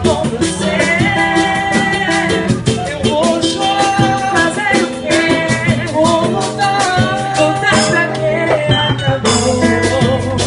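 Samba band playing, with a quick, even percussion beat and a shaker over a bass and melodic instruments.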